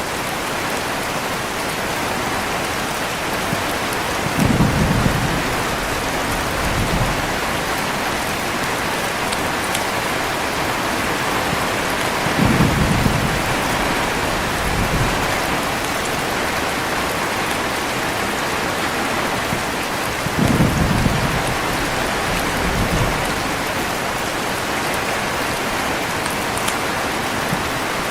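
Steady heavy rain, with low rolls of thunder that swell three times, about eight seconds apart, each trailing off in a smaller rumble.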